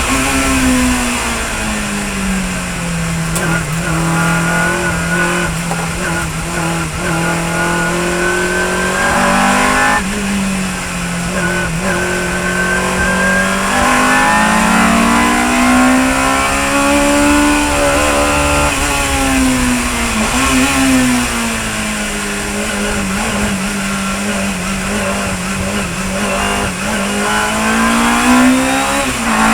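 Chevron B19 sports racing car's engine at full racing pace: its pitch climbs, drops sharply at a gear change about ten seconds in, climbs again, falls away for a couple of seconds around the middle as it slows, then holds and rises again near the end.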